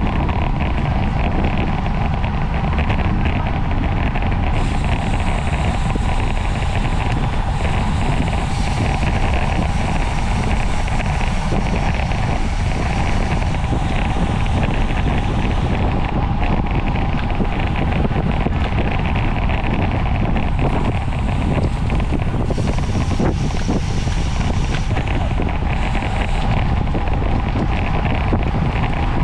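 Steady wind rush buffeting the microphone of a camera on a racing bicycle at speed, with a constant hum under it.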